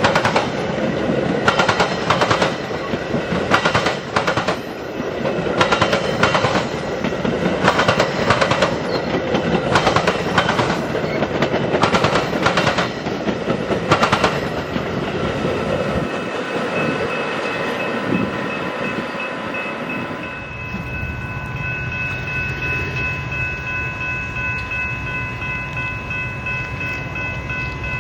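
Freight train cars rolling past, their wheels clicking over rail joints in pairs about every two seconds. About three-quarters of the way through, the clicking has died away and a train horn sounds one long steady chord over a low engine rumble.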